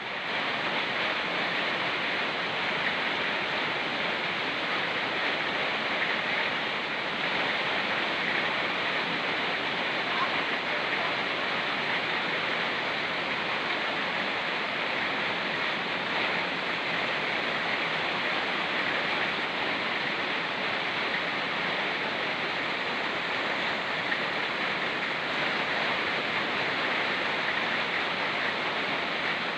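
Fast-flowing mountain stream and rain: a steady, even rush of water that holds at one level throughout.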